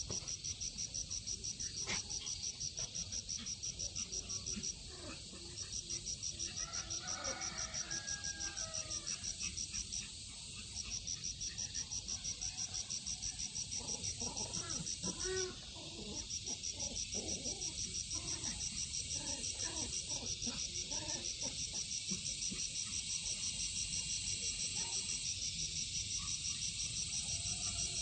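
An insect, likely a cricket, trilling in a rapid, even, high-pitched pulse that breaks off briefly three times. Faint, short, indistinct sounds come through underneath.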